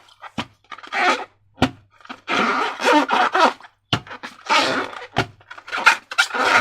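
Slime being squished and stretched by hand, wet squelching and crackling in irregular bursts, with a few sharp snaps.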